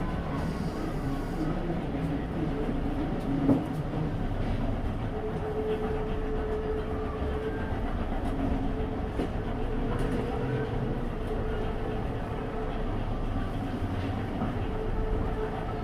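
Tobu Railway train running at a station platform: a steady rumble with a humming tone that comes and goes, and a single sharp knock about three and a half seconds in.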